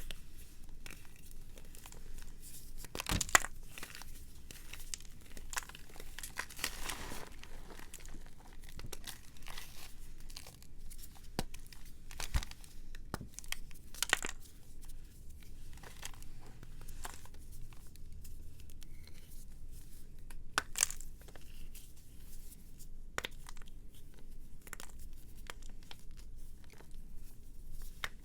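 Dry, brittle material being crushed and crumbled: a dense run of small crackles and crunches with a few louder, sharper snaps.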